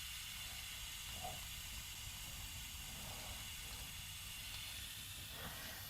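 Faint, steady hiss of background noise, with no distinct tool or work sounds.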